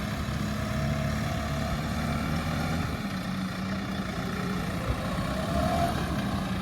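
New Holland T5.90 tractor's four-cylinder diesel engine running steadily.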